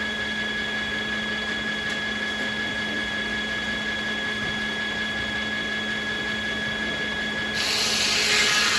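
Sawmill circular saws spinning free with a steady, constant whine over the machinery hum; near the end a saw cuts into American beech, bringing a sudden, louder rush of cutting noise.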